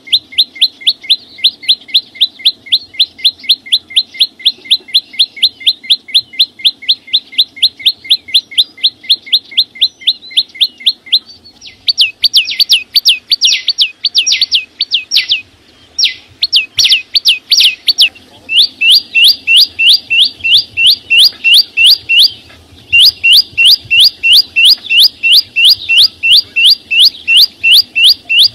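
A small songbird, the 'chim sâu xanh' (green flowerpecker), calling loudly in a rapid, even string of high chipping notes, about five a second. About 12 s in it switches to louder, falling notes in short runs with brief pauses, then settles back into steady runs with a short break near the end.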